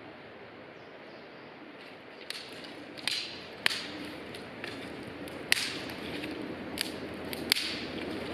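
Wood fire crackling in a fire stand: sharp, irregular pops and snaps every second or so, starting about two seconds in, over a steady low hiss.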